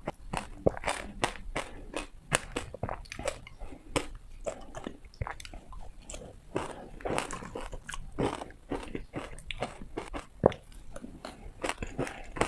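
Ice being bitten and crunched between teeth: a quick, irregular run of sharp cracks and crunches, several a second.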